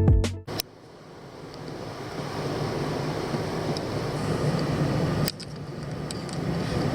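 Guitar music ends within the first half second, followed by a steady noisy hum that slowly grows louder, breaking off suddenly about five seconds in and then carrying on more quietly.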